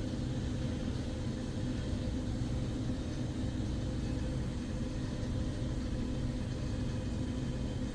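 Steady low droning hum with several constant tones over a low rumble: a store's background machinery, with no single event standing out.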